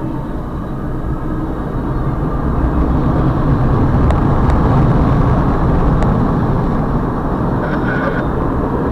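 Double-stack intermodal freight train passing close by: a steady low rumble of steel wheels on rail that swells toward the middle, with a few sharp clicks and a brief high squeal near the end.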